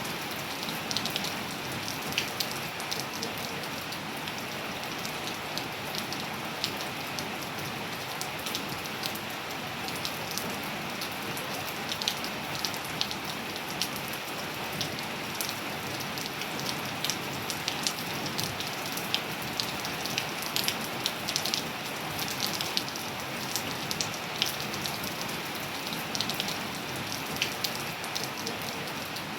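Steady rain falling, an even hiss with many scattered close drop ticks and splats.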